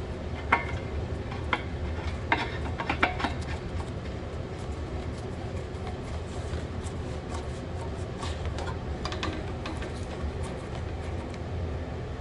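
Small parts of an automatic air-compressor drain valve being handled and screwed back together: a few sharp clicks and knocks in the first three seconds, then lighter scattered ticks. A steady low hum lies underneath.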